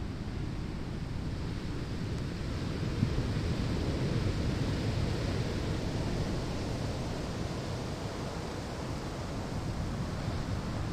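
Ocean waves breaking on a sandy shore: a continuous surf wash that swells a few seconds in and eases off again.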